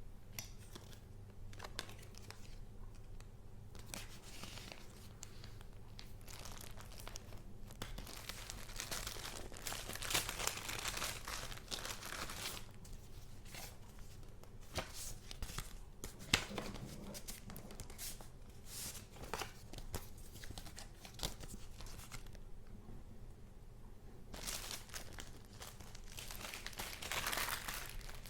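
Paper being handled: rustling and crinkling in irregular bursts, the busiest stretches about a third of the way in and again near the end, with a few sharp clicks.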